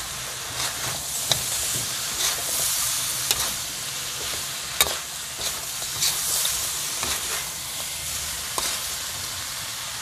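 Python meat frying in a thick soy-sauce glaze in a metal wok, sizzling steadily as the sauce cooks down to dry. A metal spatula stirs through it, knocking and scraping against the pan about seven times at irregular intervals.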